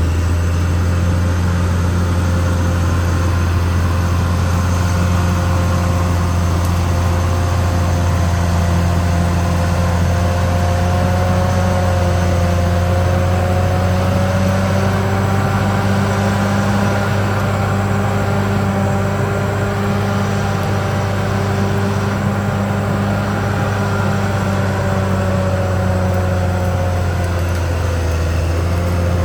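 CAT D6R XL bulldozer's diesel engine running steadily with a deep drone. Its higher tones drift slightly up and down in pitch.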